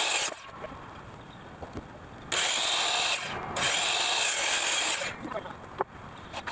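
Handheld power tool working wood in three short runs, the second and third each about a second or more long, with a few light knocks after.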